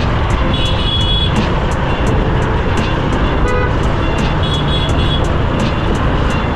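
Motorcycle riding at speed: steady wind rush on the rider's microphone over the engine and road noise, with short horn toots from traffic twice.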